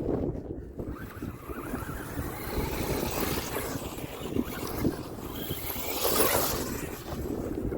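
Wind buffeting the microphone while a Wltoys 124006 Desert Racer RC truck drives over rough ground, with a brief louder hiss about six seconds in.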